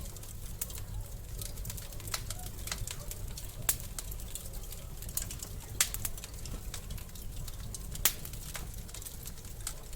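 Wood fire crackling, with irregular sharp pops and snaps over a steady low rumble; the loudest pops come about four, six and eight seconds in.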